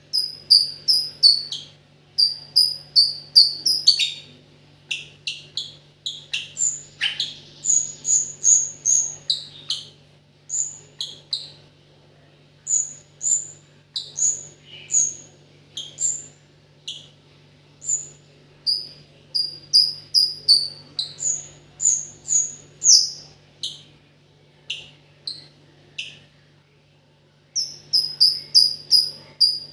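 A rio-rio songbird singing energetically without a break: quick runs of sharp, high chirping notes, easing off to a quieter stretch near the end before a fresh run starts. A steady low hum sits underneath.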